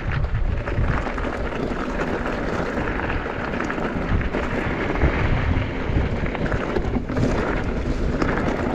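Wind rushing over the camera microphone during a downhill mountain bike run, with tyres on the dirt trail and many small knocks and rattles from the bike.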